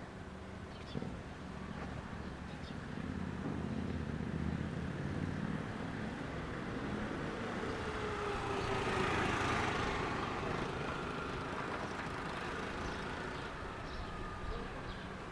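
A motor vehicle passing by: engine and tyre noise builds to a peak about nine seconds in, its pitch dropping as it goes past, then fades.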